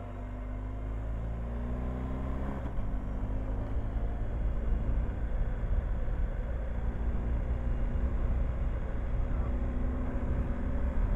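Motorcycle engine pulling with a rising pitch, a gear change about two and a half seconds in, then riding on under a steady low rumble of wind that grows louder as speed builds; the pitch climbs again near the end.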